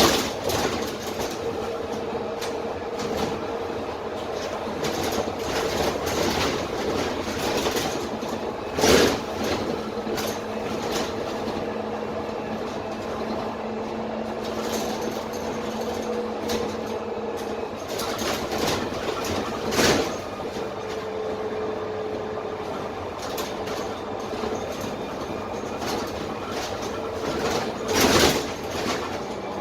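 Dennis Trident 12 m double-decker bus heard from inside the lower deck while driving: its Cummins ISMe diesel engine and Voith automatic gearbox give a steady drone with a held whine that shifts slightly in pitch, over constant body rattle. Three loud knocks from the body and suspension stand out, spread through the stretch.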